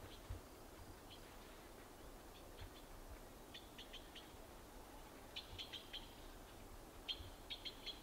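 Faint bird chirps: short, high calls in quick clusters of three to five, the clusters coming every one to two seconds over a soft background hiss. A brief low thump sounds just after the start.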